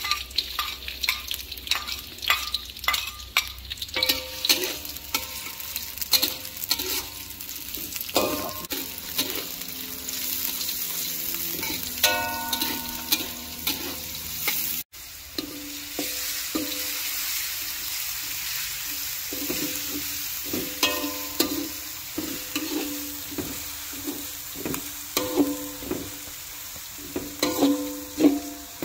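Sliced red shallots and garlic sizzling in hot oil in an aluminium wok, with a metal spatula stirring and scraping the pan in frequent sharp clinks.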